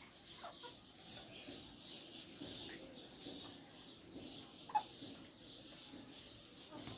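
Backyard chickens and ducks calling softly, with one short, sharp call about five seconds in.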